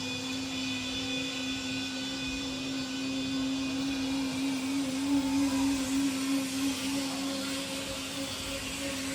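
A small motor starts up just before and runs at a steady pitch, a continuous high whir that wavers slightly about halfway through.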